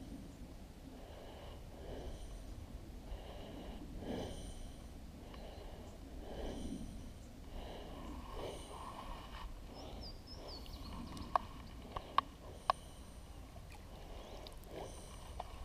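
Water swishing and lapping against a kayak in irregular pulses about a second apart, over a low wind rumble on the microphone, with a few sharp clicks a little past the middle.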